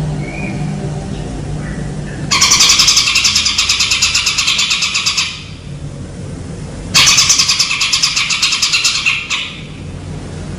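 A songbird's rapid, buzzy trill, sung twice, each phrase lasting two to three seconds, over a steady low hum.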